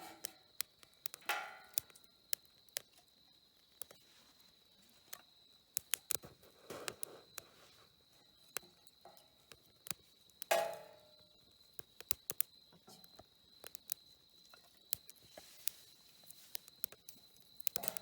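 Wood campfire crackling, with irregular sharp pops and snaps, over a steady high-pitched trill. Two brief louder pitched sounds stand out, about a second in and about ten and a half seconds in.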